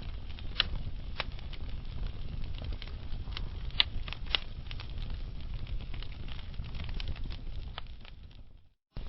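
Wood fire burning in a fireplace: a low steady rumble of flames with scattered sharp crackles and pops, one louder pop a little before the middle. Near the end the sound fades out to a moment of silence and then comes straight back.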